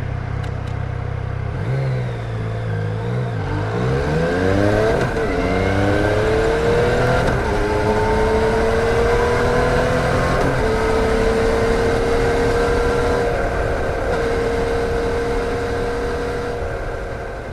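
2014 Yamaha MT-09's 847 cc inline three-cylinder engine at low revs, then accelerating hard about three to five seconds in with its pitch climbing steeply. It then holds a steady, slowly rising note under way.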